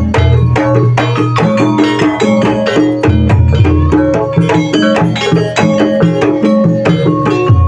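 Jaranan (ebeg) ensemble music played loudly: hand drums beating rapid strokes over held tuned-percussion notes in a steady rhythm.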